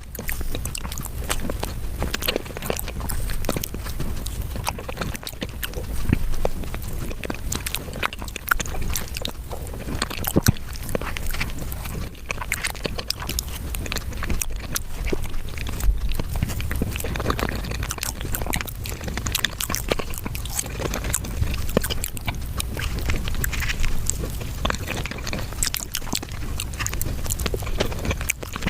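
Close-miked mukbang eating sounds sped up five times: a continuous rapid clatter of chewing, biting and wet mouth clicks.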